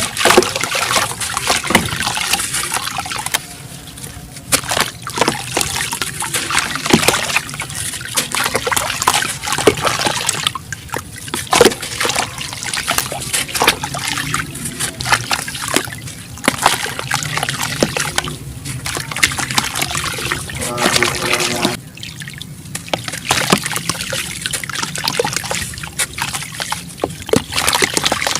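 Chunks of black sand cement crumbling as they are dipped in water: wet crackling and crumbling with trickling and splashing, dense sharp crackles throughout, easing off briefly a few times.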